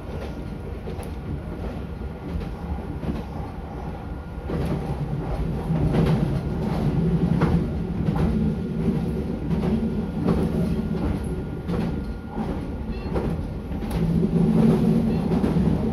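Meitetsu 4000 series electric train running, heard from inside the front car: a steady rumble of wheels on the rails with scattered clacks over rail joints. The noise grows louder about four seconds in.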